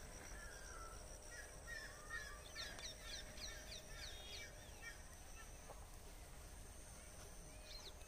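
Faint bird calls: a scatter of short chirps and whistles from several birds, busiest in the first five seconds, over a quiet outdoor background.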